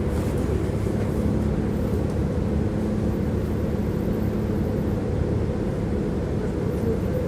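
Tram running along its track, heard from inside the passenger car: a steady low rumble of wheels on rails with a constant hum.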